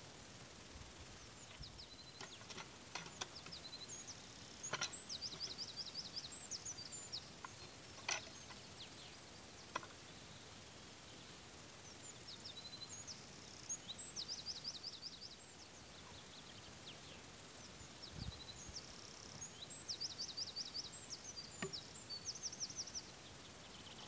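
Songbird singing in three spells of quick repeated high notes over a quiet outdoor background, with a few sharp knocks of a hand tool striking an oak log, the loudest about eight seconds in.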